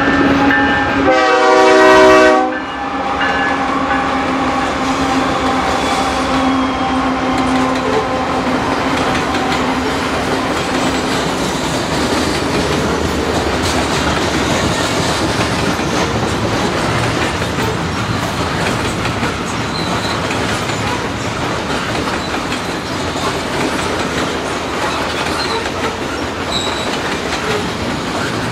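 Loaded Canadian Pacific coal train passing at speed. The lead GE diesel locomotive's horn gives a short blast about a second in, the loudest moment. Then come the locomotives' engines and the steady rumble and clickety-clack of the loaded coal cars' wheels over the rail.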